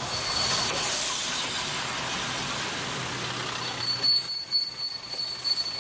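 Diesel railcar rolling slowly to a stop, with a broad rushing noise of wheels on rail that fades about four seconds in, leaving a high steady squeal as it comes to rest.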